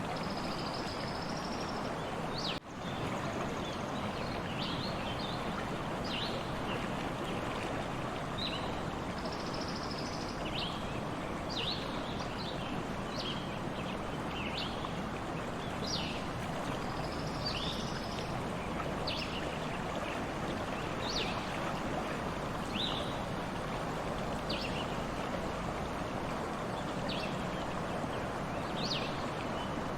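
Stream flowing steadily, with short high chirps from birds coming about once a second. The sound cuts out for a moment about three seconds in.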